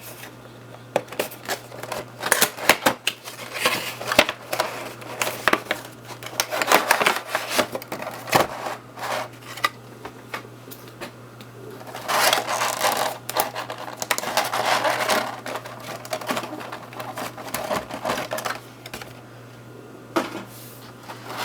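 A cardboard model box and its packaging being opened and handled by hand: irregular clicks, taps, scraping and rustling, denser in two spells, over a steady low electrical hum.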